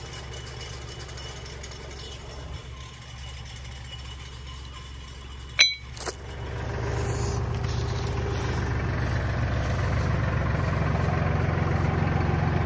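Tractor engine idling with a steady low hum. A little past halfway comes a sharp metallic clank, with a smaller knock just after it. The engine then runs louder.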